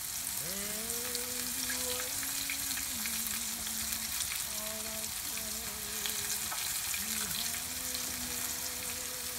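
Flour-dredged chicken cutlets frying in hot canola oil in a sauté pan: a steady sizzle with fine crackling.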